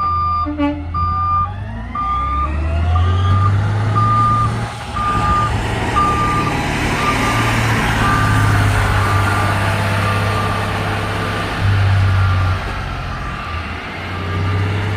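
Garbage truck backing up: its reversing alarm beeps about once a second over the low engine, which revs up about two seconds in. The beeps grow fainter near the end.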